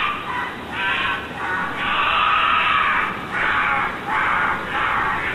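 European badger calling: a run of about six rough, noisy calls, each lasting half a second to a second, with short gaps between them.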